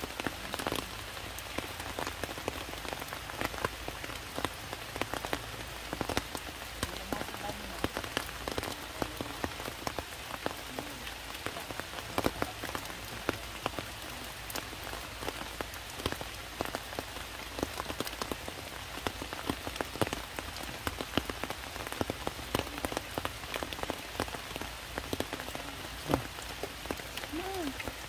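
Heavy rain falling steadily on rocks and broad leaves, with many sharp, irregular drip and splat sounds of drops landing close by.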